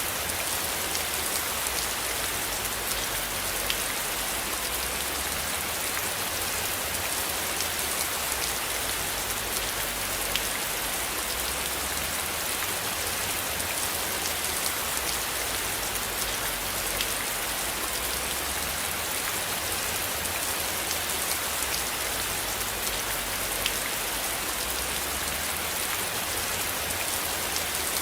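Steady rain falling: an even hiss dotted with many small drop ticks, over a faint low rumble that swells and fades.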